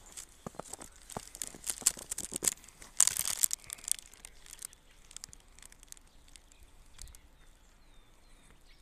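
Footsteps crunching in fresh snow: crisp, irregular crackles, loudest about three seconds in, dying away after about four and a half seconds.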